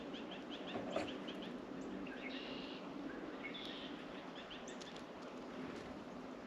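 Small songbirds at a feeder calling: a quick series of short high chirps, then two buzzy calls and a few more chirps. A sharp knock about a second in, such as a bird landing on or pecking the feeder.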